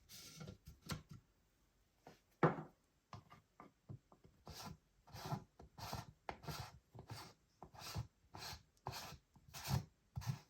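Hands rubbing and handling an item during an unboxing: a few irregular scrapes, then a regular run of rubbing strokes, about one and a half a second, through the second half.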